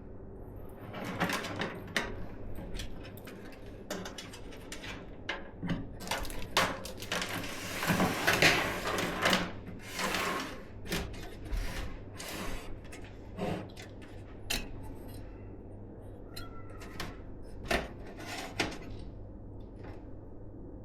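Hands handling PC parts: a scatter of small clicks and knocks, with a denser stretch of rustling from about six to ten seconds in, over a steady low hum.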